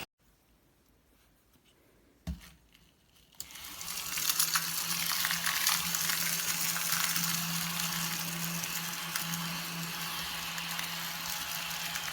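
Cordless mini desktop vacuum cleaner running: a steady small-motor hum with airflow hiss that comes up about three and a half seconds in, after a single click.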